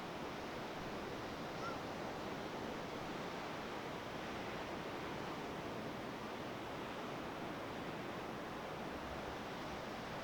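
Steady wash of sea and wind noise, with no swells or breaks standing out.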